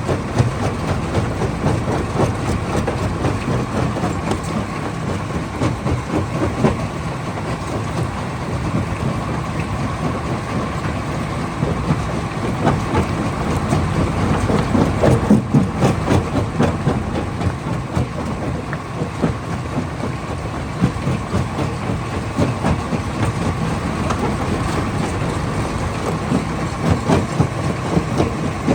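Hammer crusher running at a stone crushing plant, rock rattling and knocking through it continuously over a steady machine hum, a little louder about halfway through.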